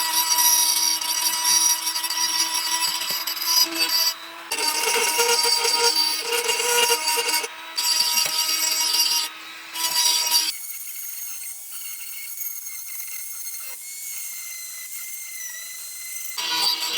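Workshop tool noise of wood being worked, sawing and a power tool, in short clips that cut in and out abruptly, with background music. About ten seconds in it gives way to a quieter stretch for several seconds before the louder tool sound returns.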